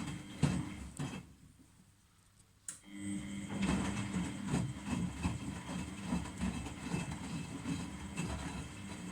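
Miele Novotronic W971 washing machine running, with a motor hum and irregular clatter and clicks. It stops for about a second and a half about a second in, then starts again with a click.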